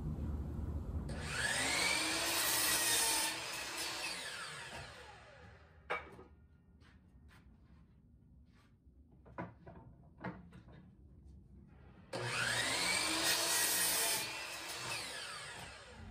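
Power miter saw making two cuts through wood. Each time the motor whines up to speed, the blade cuts through the board, and the motor runs down. Between the cuts there are a few light knocks.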